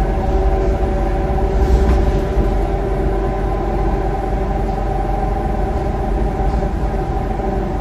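Scania K230UB bus running steadily, its Scania DC9 engine and ZF Ecomat automatic gearbox giving a low rumble under several steady whining tones.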